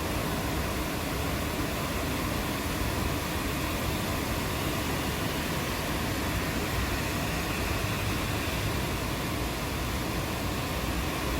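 Steady rainfall, an even hiss with no thunder in it.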